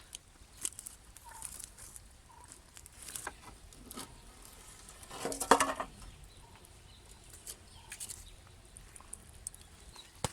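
Chicken clucking, with one louder call about halfway through, among scattered clicks and rustles.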